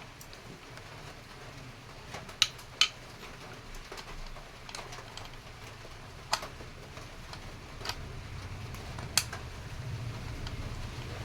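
A few sharp metallic clicks and taps of engine parts being handled during motorcycle engine assembly, two close together a few seconds in, over a low hum that grows a little louder near the end.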